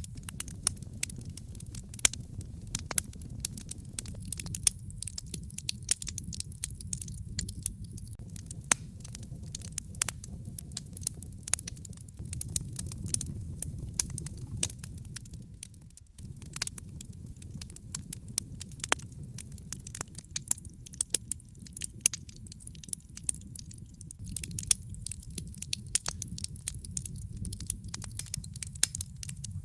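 Wood fire crackling in a fireplace, with frequent irregular sharp pops and snaps over a steady low rumble that briefly drops away about halfway through.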